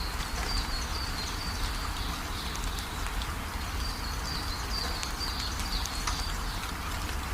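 Steady rain with scattered drop ticks over a low, steady rumble. Runs of short, high chirps from a small animal, each dipping slightly in pitch, come in twice.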